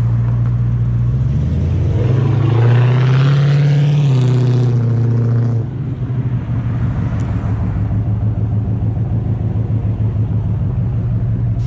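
Car engine revving up and holding higher revs for a few seconds, then dropping back suddenly about six seconds in to a steady, pulsing idle.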